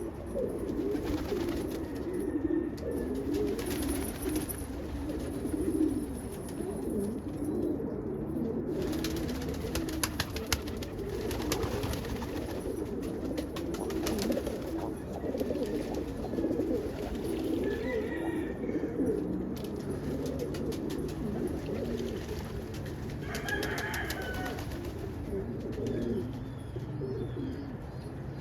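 Many domestic pigeons cooing together in a continuous, overlapping chorus, with a few brief higher bird calls about two thirds of the way in and again near the end.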